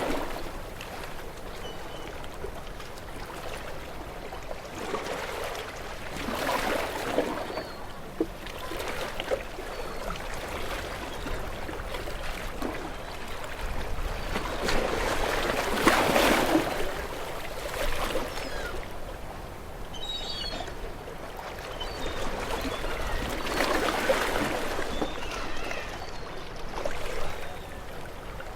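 Small waves washing onto a shore, swelling and falling back every several seconds, with a fizzing wash between.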